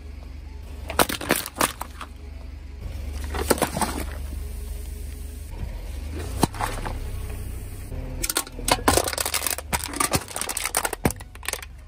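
A toy being crushed under a car tyre: sharp cracks and crackles a little after the start, again in the middle, and in a dense run later on, over a steady low rumble.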